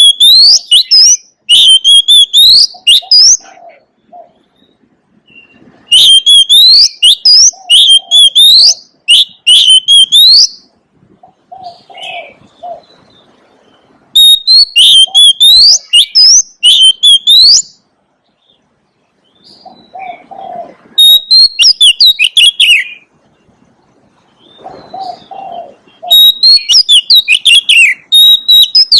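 Oriental magpie-robin singing in loud phrases of quick, varied whistled notes, about five phrases with short pauses between. Between the phrases a dove coos softly and low.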